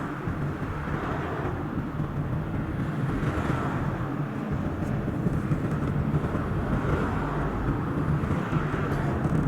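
Car driving on a road: steady engine and tyre noise.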